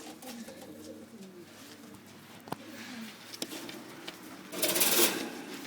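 Domestic fantail pigeons cooing, low and wavering. A short, loud rustle comes about four and a half seconds in.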